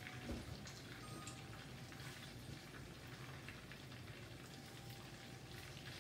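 Catfish fillets frying in hot oil in an electric skillet: a faint, steady sizzle with many small crackles.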